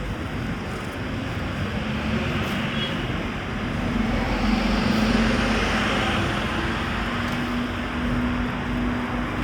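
Street traffic: a motor vehicle going by with a steady engine hum that swells to its loudest about halfway through, over a constant traffic noise.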